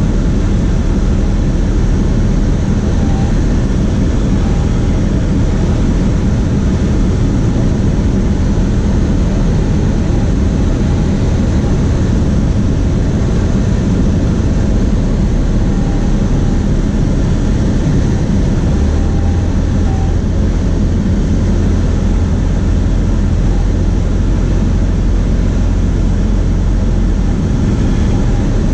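Cessna 152's four-cylinder Lycoming engine and propeller running steadily in flight, a loud, even drone; its low hum grows stronger about two-thirds of the way in.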